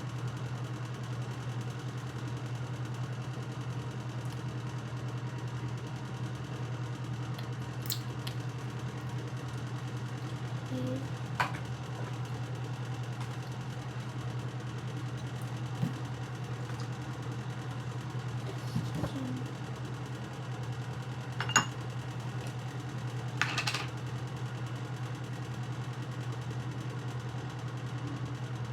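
A steady low hum, like a fan or small appliance running, with a few short clicks and taps now and then.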